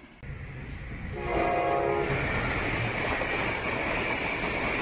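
Passenger train's horn sounding one chord-like blast of about a second, about a second in, as the train approaches at speed. Then the train runs close past, a loud steady rumble with a high ringing from the wheels on the rails.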